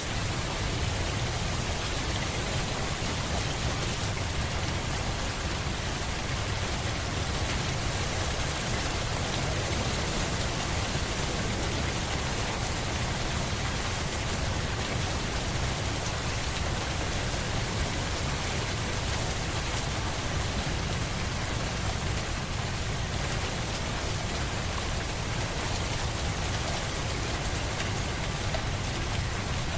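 Steady rain falling, an even hiss with a low rumble underneath, starting suddenly out of silence and holding level throughout.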